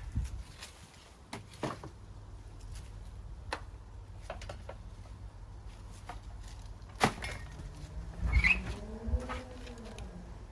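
Scattered light knocks and clicks of things being handled, with a sharper knock about seven seconds in and a short creak that rises and falls in pitch near the end.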